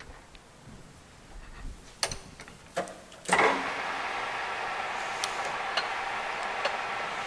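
Geared-head engine lathe (Cut King 850G) being shifted from threading to feed mode: two sharp clunks of its levers, then a little over three seconds in the machine starts and runs steadily with light ticks.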